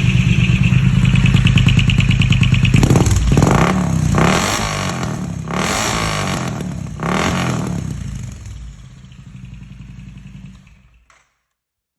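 Triumph Speed Twin 900's parallel-twin engine running through a quite loud aftermarket exhaust. It idles, is revved in four quick blips, then settles and is switched off near the end.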